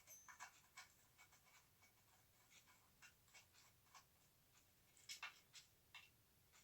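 Faint, scattered clicks and light scrapes of parts being handled, with a small cluster of louder clicks about five seconds in, over near silence.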